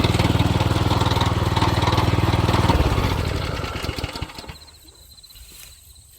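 Small petrol engine of a walk-behind rotary-blade engine weeder running steadily, then shut off about three seconds in and running down to a stop over a second or so.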